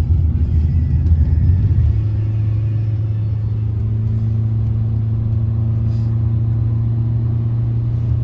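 Motor vehicle running, with heavy low rumble. About two seconds in, it settles into a steady low engine drone.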